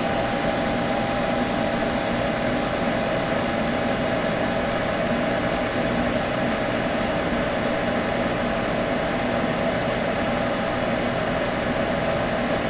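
Computer humming steadily, an even whirring noise with a faint constant whine in it.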